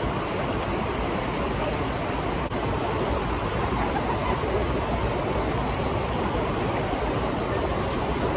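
Steady rush of falling water from a small waterfall, an even roar with no let-up.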